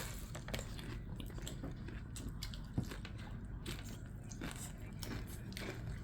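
Close-up chewing of a burrito with kettle chips inside, with irregular crisp crunches and one sharper crack a little under three seconds in.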